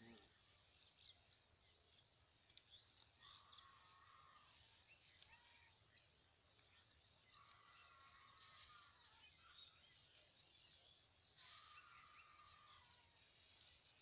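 Near silence: faint outdoor ambience with a distant bird calling three times, about every four seconds, and a few faint light ticks.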